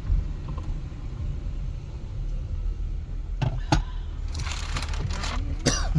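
Steady low road rumble of a car driving, heard from inside the cabin, with a couple of sharp clicks about halfway through and a brief falling squeak near the end.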